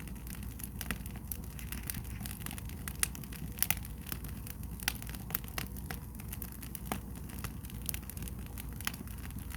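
Wood fire burning, crackling with irregular sharp pops, a few louder ones a few seconds in.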